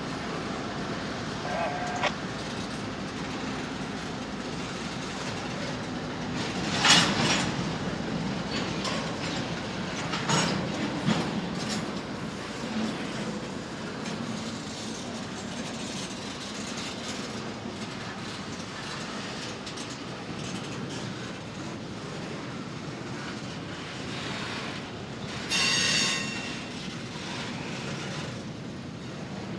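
Intermodal freight train rolling past: a steady rumble of wheels on rail with scattered clicks and knocks from wheels over the rail joints, and a loud clank about seven seconds in. Near the end comes a brief, high wheel squeal.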